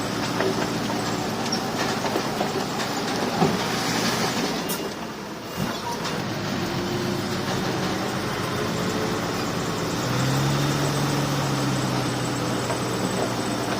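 Komatsu crawler bulldozer working, its diesel engine running under the clatter and squeal of its steel tracks. The engine tone grows stronger about ten seconds in.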